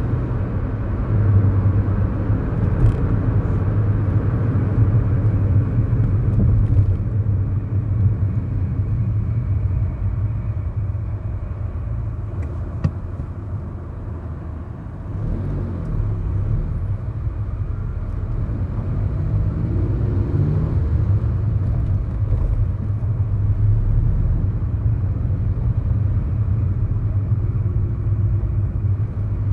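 2011 Kia New Morning's 999 cc four-cylinder petrol engine and tyres running on the road, heard from inside the cabin. The sound dips about halfway through, then the engine pitch climbs as the car picks up speed.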